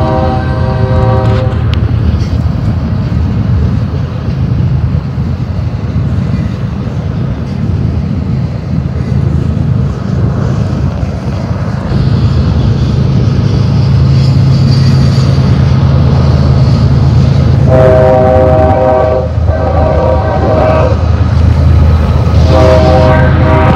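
Double-stack intermodal freight train passing close by, its cars and wheels on the rails making a steady low rumble that grows louder about halfway through. A train horn sounds briefly at the start and twice more near the end.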